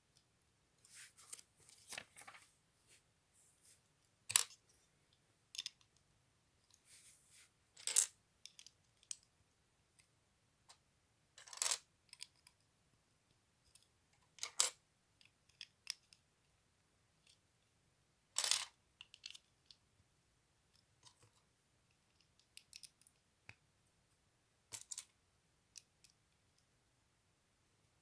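LEGO bricks being handled and pressed together: scattered sharp plastic clicks and clatters with short rustles between them, a handful of them louder than the rest.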